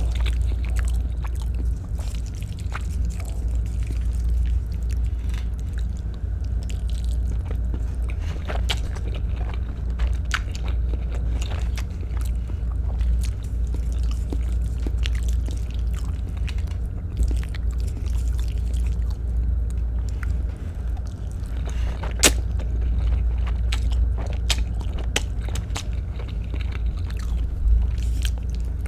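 Close-miked chewing of Filipino-style spaghetti, with scattered sharp clicks, one louder about two-thirds of the way through, over a steady low rumble.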